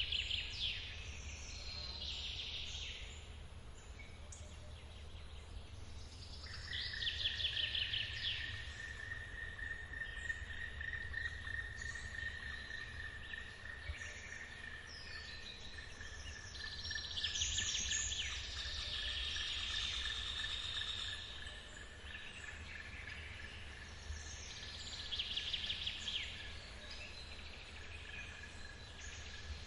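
Forest birds singing in repeated bursts of high trilled song. A steady high insect drone sets in about six seconds in, and all of it sits over the low, steady rumble of a forest waterfall.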